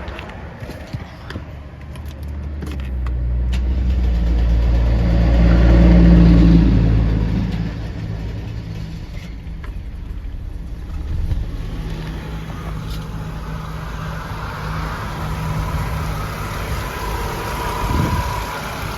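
1992 Mercedes-Benz 300CE's 3.0-litre inline-six starting from fully cold: a few clicks, then the engine catches about three seconds in, its revs climb to a high cold-start flare, and it settles into a steady fast idle.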